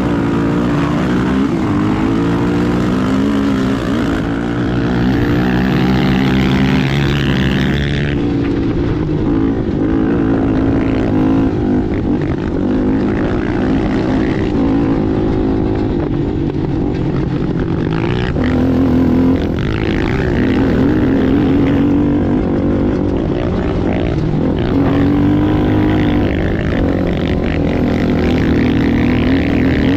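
Racing ATV engine running hard, its pitch rising and falling again and again with the throttle.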